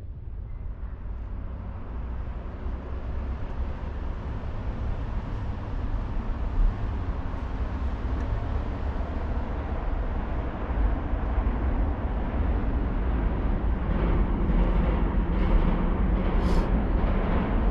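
Wind buffeting the microphone aboard a sailboat, a steady low rumble with hiss that grows gradually louder.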